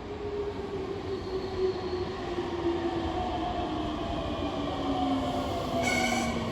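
Meitetsu 3100 series electric train pulling into the station, its traction motors whining down in pitch as it brakes and growing louder as it draws near. Near the end a short high squeal sounds, typical of the brakes.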